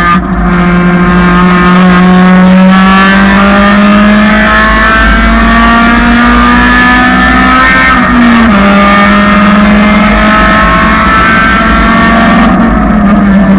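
1999 Honda Civic race car's engine pulling hard at full throttle, its note climbing steadily through the revs. It drops sharply at an upshift about eight seconds in, climbs again, and falls once more near the end.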